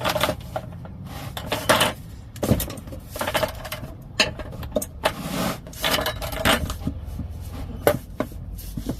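Ratchet wrench working the oil pan drain plug loose: short irregular bursts of clicking and metallic scraping, a dozen or so strokes with light metal ringing.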